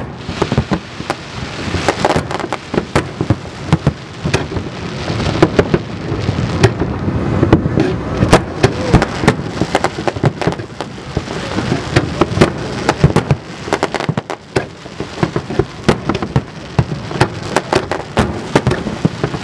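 Large fireworks display going off without pause: many sharp bangs, several a second, over a dense, steady crackle.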